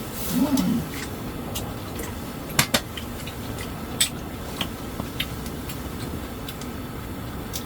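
A few sharp clicks of cutlery against plates and glass, a double click about two and a half seconds in, over a steady background hiss.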